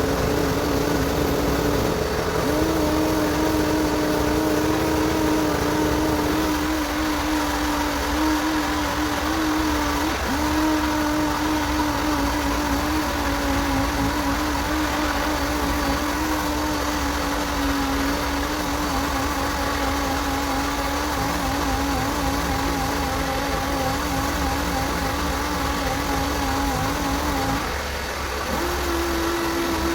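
A motor running steadily with a humming tone that wavers and shifts a little in pitch, stepping up in pitch near the end.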